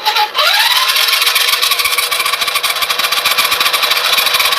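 Electric motor and gearbox of a RadioShack Rock Runner R/C truck whining. It spins up in pitch within the first second, then runs at a steady high speed.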